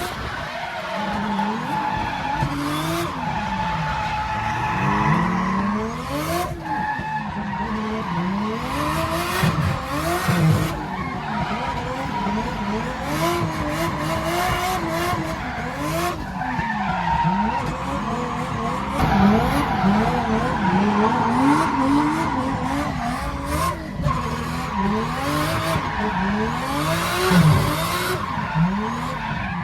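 Drift car engines revving up and down over and over as the throttle is worked through the corners, over continuous tyre squeal and skidding.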